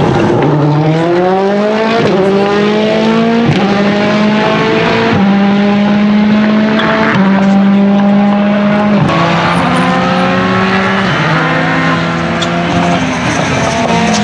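Citroën C3 WRC Plus's 1.6-litre turbocharged four-cylinder engine under hard acceleration. Its pitch climbs, then steps through quick gear changes every second or two, and drops lower a few seconds before the end.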